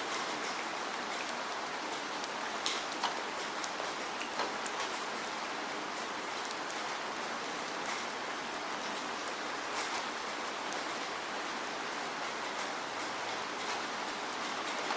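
Steady rain falling, an even hiss with scattered sharp drop impacts a few times a second.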